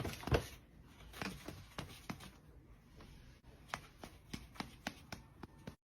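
Quiet, irregular soft clicks and taps, a dozen or so short ones.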